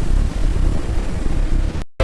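Steady low rumble and noise of heavy steel-mill machinery, which cuts off abruptly near the end.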